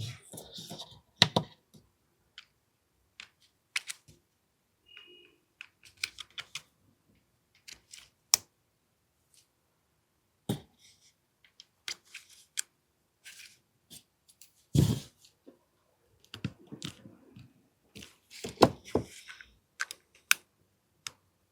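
Small parts of an AAP-01 airsoft pistol's trigger group being handled and fitted back in: irregular sharp clicks and light taps, with a heavier knock about 15 seconds in and a busier run of clicks near the end.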